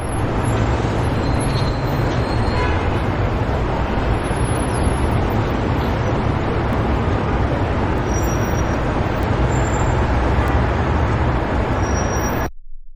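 A loud, steady rumbling noise, heaviest in the low end, that starts and cuts off abruptly.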